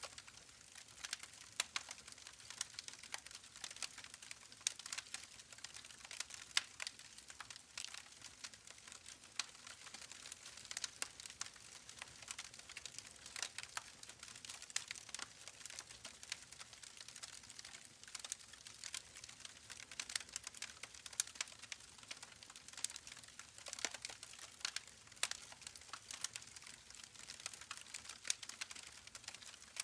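Campfire crackling: wood burning with irregular sharp pops and snaps over a soft steady hiss.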